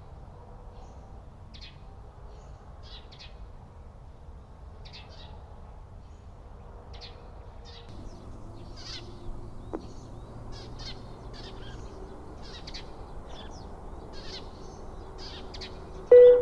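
Small birds chirping in short, scattered calls over a steady low hiss. Just at the end, a TOA outdoor public-address loudspeaker suddenly starts a loud chime melody.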